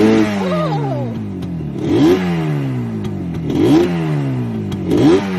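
Motorcycle engine revved repeatedly: four quick throttle blips, each pitch rising sharply and then falling back slowly.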